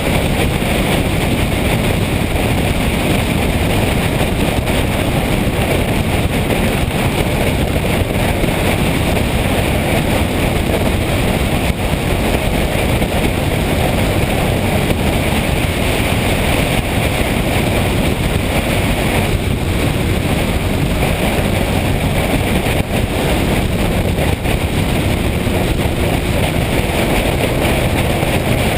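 Motorcycle under way, with a steady rush of wind on the microphone over the engine and road noise.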